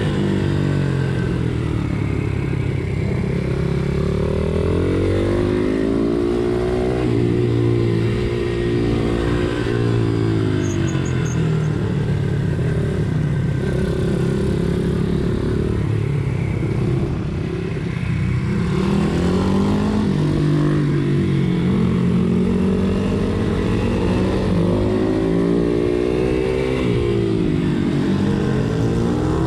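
Pit bike engine at racing speed, its pitch rising and falling again and again as it accelerates and backs off through the corners.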